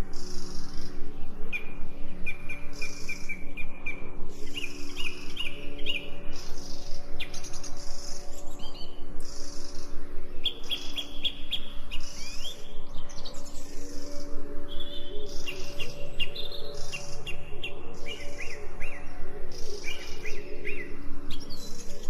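Birds chirping and singing, with repeated short trills coming again and again, over steady low sustained tones.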